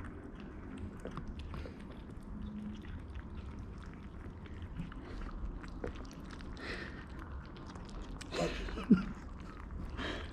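Kittens eating pieces of cooked chicken: a steady run of small, irregular chewing and smacking sounds. A brief louder sound stands out a little over eight seconds in.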